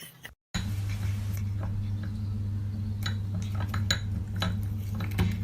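Light scattered clinks and taps over a steady low hum that starts about half a second in.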